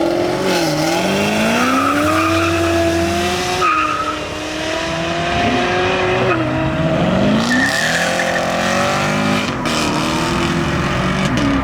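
A car engine revving hard as it accelerates, its pitch climbing and dropping back sharply several times.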